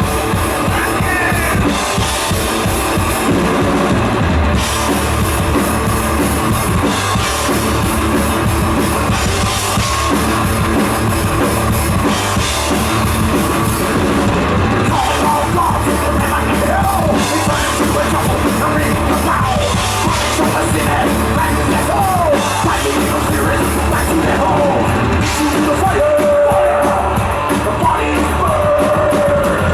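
Heavy metal band playing live at full volume: distorted electric guitars, bass and drum kit.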